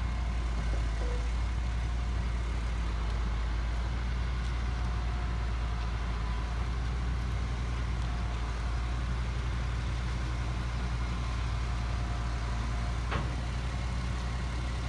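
Heavy truck engine idling steadily, with a short tap near the end.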